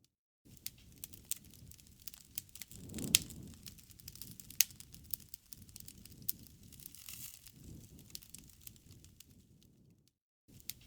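Campfire crackling, with scattered sharp pops over a low rumble of burning wood; the sound cuts out briefly just after the start and again near the end.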